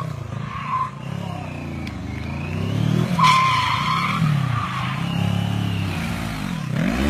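A car engine revving up and down over and over, with tyres squealing several times; the loudest squeal comes a little after three seconds in.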